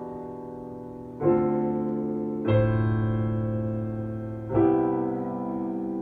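Solo piano playing a slow piece in A minor: full chords struck about every one to two seconds, each left to ring and fade before the next.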